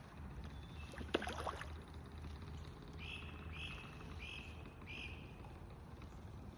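A bird calls four times in a row, short high notes about half a second apart, over a steady low rumble. About a second in, a brief burst of sharp clicks and knocks.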